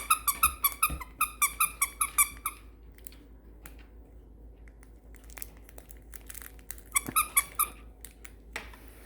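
Squeaky dog toy squeaked in a quick run of about a dozen squeaks over the first two and a half seconds, then a second short run about seven seconds in.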